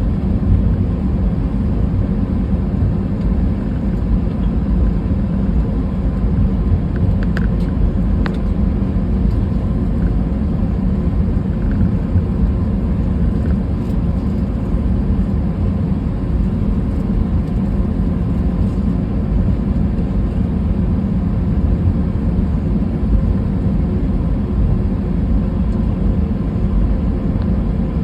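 Steady cabin noise of an Airbus A320 airliner in flight: a low, even rumble of the engines and airflow with faint steady hums. A few faint clicks come about seven to eight seconds in.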